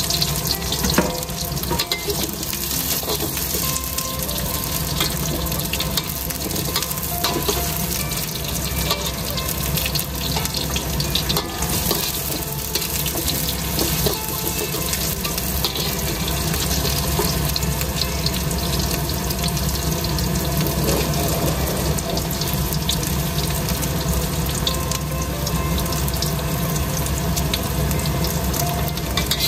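Sliced onions sizzling in hot oil in a steel wok, stirred and turned with a metal spatula that scrapes and clicks against the pan.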